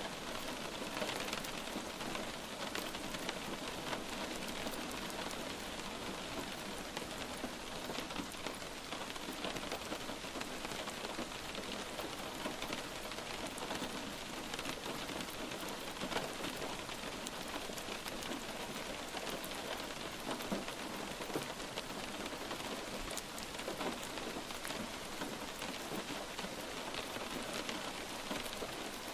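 Light rain falling steadily, a continuous hiss with many small drops tapping on a surface.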